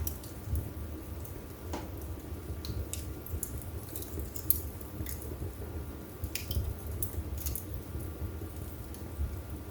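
Wood fire burning in a fireplace: a low rumble of flames with irregular crackles and sharp pops from the burning logs.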